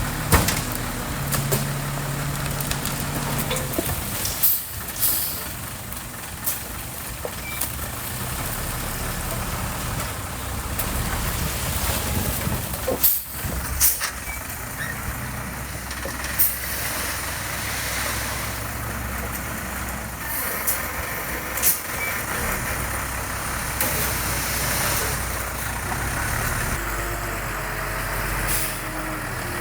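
Heavy diesel construction machinery running steadily, with short sharp hissing or clanking bursts cutting in every few seconds.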